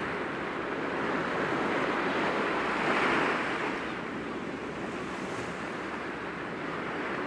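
Sea waves breaking gently against rocks: a continuous wash of surf that swells to a peak about three seconds in and then eases off.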